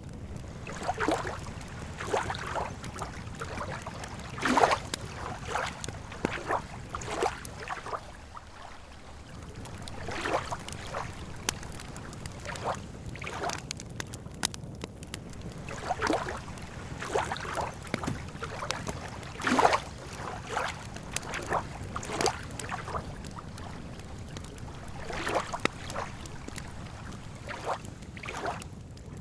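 Small lake waves lapping against the shore in irregular splashes every second or two, over a steady low rumble.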